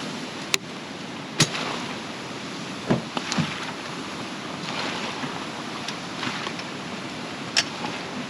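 Heavy rain pouring steadily, a dense hiss, with a few sharp knocks scattered through it.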